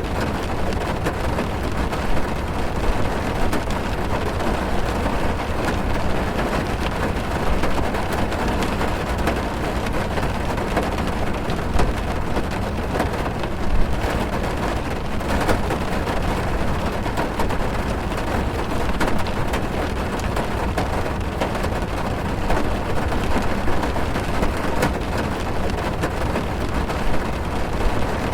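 Steady heavy rain drumming on a car's roof and windows, heard from inside the cabin, with a deep low rumble under many small drop ticks.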